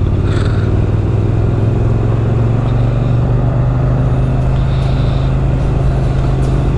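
Motorcycle engine running steadily under way, its note getting louder just at the start and then holding an even pitch, with wind and road noise over it.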